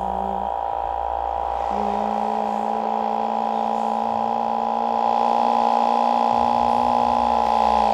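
Yamaha XJ6 motorcycle's inline-four engine running at steady high revs while riding, a held, even pitch that barely changes.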